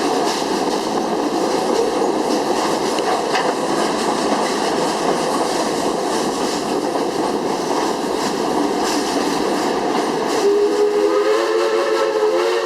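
Steam train running along the track with a steady rumble and clatter. About ten seconds in, the steam locomotive's whistle starts sounding a steady chord that is still going at the end.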